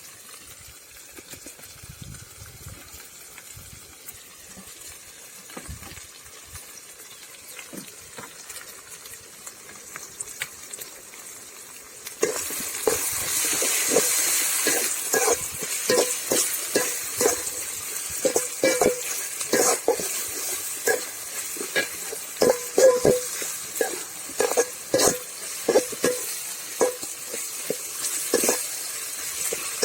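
Frying in a kadai: a faint sizzle at first, then about twelve seconds in a sudden loud sizzle starts, the sound of green chillies and curry leaves going into the hot oil with the sautéed onions. A spatula then scrapes and knocks against the kadai again and again as the mixture is stirred.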